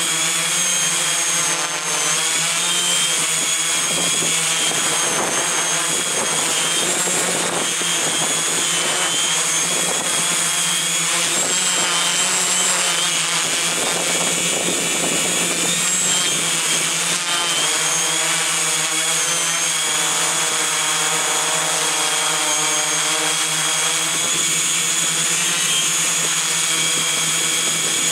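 Electric motors and propellers of an RC multirotor whining steadily, heard from the onboard camera, with the high pitch wavering slightly as the motors adjust, mixed with wind noise.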